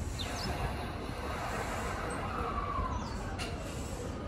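Tokyo Waterfront Area Rapid Transit 70-000 series electric train starting to pull away from the platform: a steady low rumble, with a faint falling whine about two to three seconds in.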